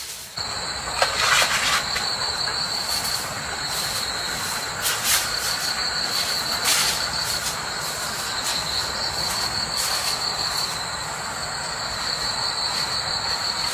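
A steady rushing noise sets in just after the start, with a high, pulsing insect trill over it and a few sharp clicks.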